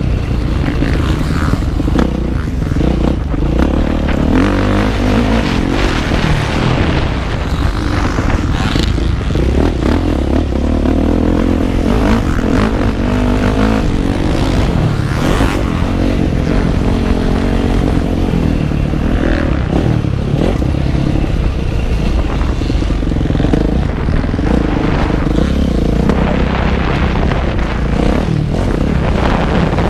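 Motocross bike engine revving up and down again and again as it is ridden around the track, heard close up from on the bike, with a steady low rumble of wind on the microphone.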